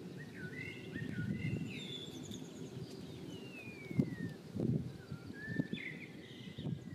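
Birds chirping and whistling in open countryside, including one long falling whistle a few seconds in, over a low, uneven rumble.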